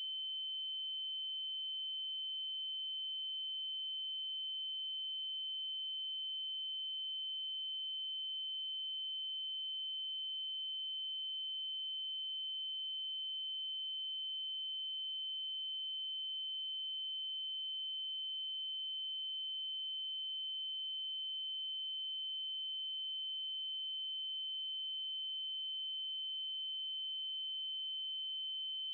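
Synthesised 3072 Hz triangle-wave tone held steady: a single unchanging high-pitched electronic tone with faint higher overtones.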